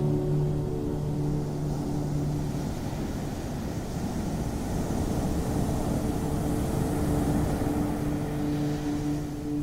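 Ocean waves washing in, the surf noise swelling through the middle, under a sustained low droning tone of relaxation music that fades out and comes back near the end.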